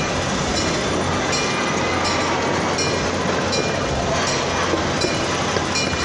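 Freight train rolling along, heard from aboard a car: a steady rumble and rattle of wheels on rail, with a faint click repeating about every three-quarters of a second.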